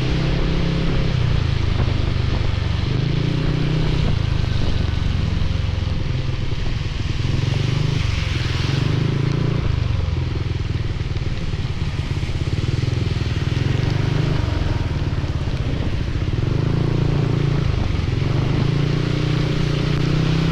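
Motorcycle engine running under way, its pitch stepping up and down every few seconds with the throttle, over a steady hiss of rain, wind and wet road. The hiss briefly grows louder about eight seconds in.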